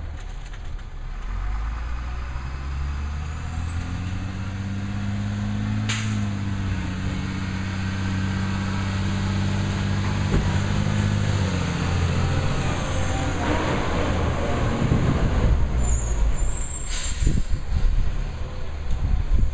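Labrie Cool Hand automated side-loader garbage truck's engine revving up and holding, with a high steady whine from about three to thirteen seconds in. A rough rattling follows, and an air-brake hiss comes near the end.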